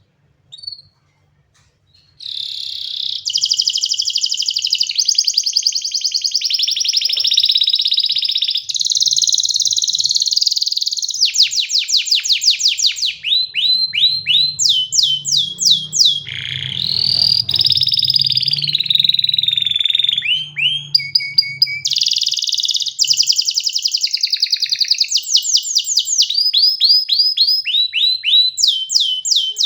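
Canary singing a long unbroken song that starts about two seconds in, made of fast buzzy trills and runs of quick repeated falling notes, switching from one phrase to the next every second or two.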